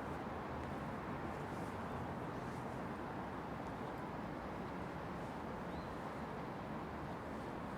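Steady distant city traffic noise, an even hum with no single vehicle standing out. A faint short high chirp comes about six seconds in.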